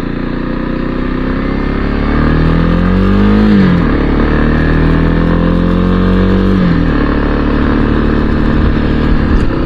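Motorcycle engine heard while riding. About two seconds in its pitch climbs for a second and a half, then drops sharply; it holds steady for about three seconds, then falls away near the seven-second mark.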